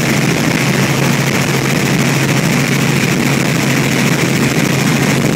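Helicopter in flight, heard from inside the cabin: steady, loud rotor and engine noise with a constant low hum.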